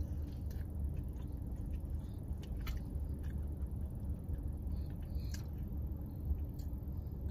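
Faint mouth sounds of a person chewing a bite of glazed donut, a few small soft clicks, over a steady low hum inside a car's cabin.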